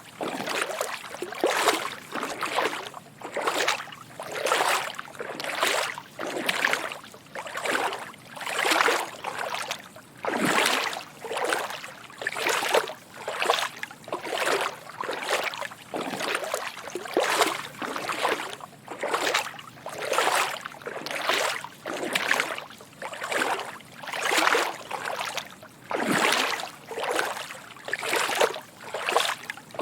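Footsteps wading through shallow water: each step a soft slosh and splash, repeating at an even walking pace of about one and a half steps a second.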